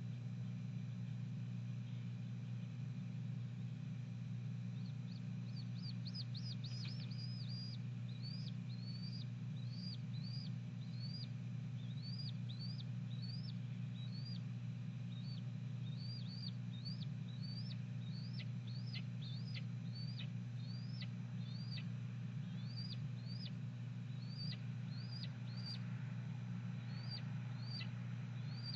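Female red-tailed hawk giving a long run of short, high, chirping calls, each sharply rising then falling, about one to two a second; a vocal response as her mate delivers prey to the nest. A steady low hum lies underneath.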